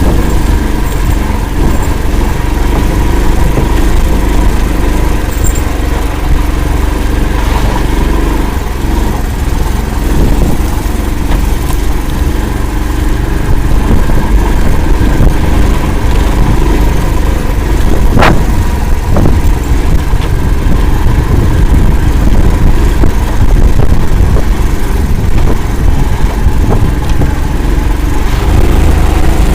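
Engine of the Akula all-terrain vehicle running steadily as it drives through a bog, a little louder in the second half, with one sharp knock a bit past the middle.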